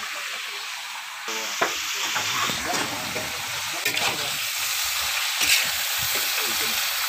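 Water spinach stir-frying in a wok, sizzling steadily and getting louder a little over a second in, with a few sharp clicks and scrapes of the metal spatula as the greens are stirred.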